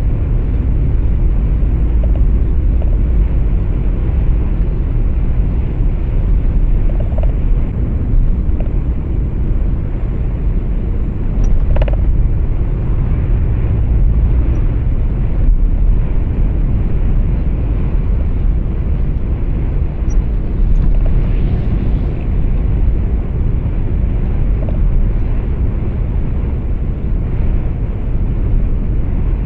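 Steady low rumble of a truck's engine and tyre noise heard from inside the cab while driving, with one short click about twelve seconds in.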